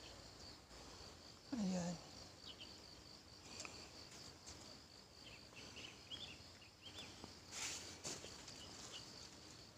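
Faint insect trilling, a steady pulsing high note, with light rustling and a brief scrape near the end.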